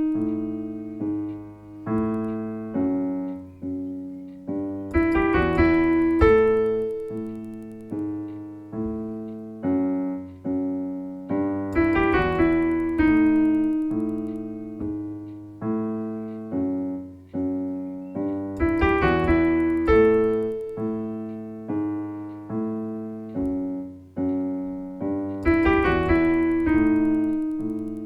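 Solo piano music played slowly, single notes and chords struck one after another and left to ring, the same phrase coming round about every seven seconds.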